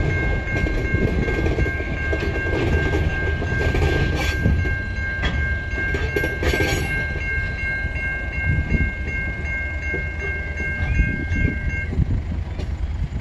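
Loaded coal wagons rolling past on a curve, with a deep rumble and wheels clicking over rail joints. A steady, high-pitched squeal of several fixed tones, typical of wheel flanges grinding against the rail on a curve, stops near the end.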